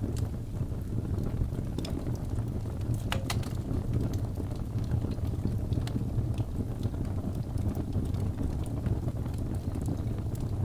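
Wood logs burning in a fireplace: a steady low rumble of flame with scattered crackles and pops, and a cluster of sharper pops about three seconds in.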